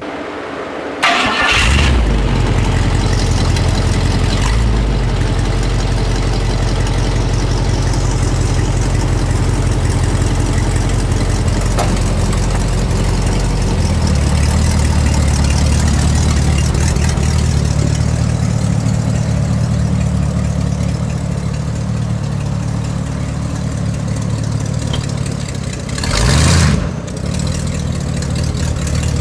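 The 3.5-litre Rover V8 in a Mazda Bongo truck starting about a second in, then running steadily. The engine note changes about halfway through, and a short louder burst comes near the end.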